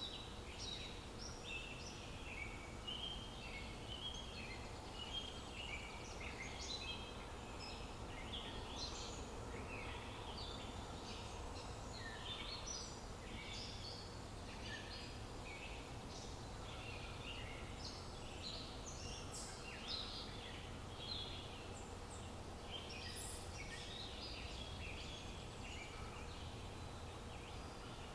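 Outdoor nature ambience with several small birds chirping and twittering continuously in quick, overlapping calls, over a steady low background rumble.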